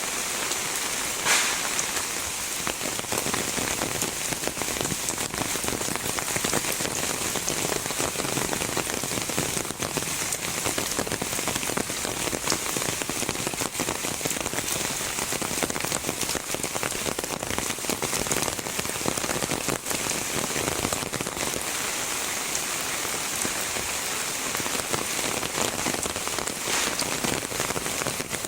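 Heavy rain falling steadily, a dense patter of drops hitting nearby surfaces, with one louder sharp tap about a second in.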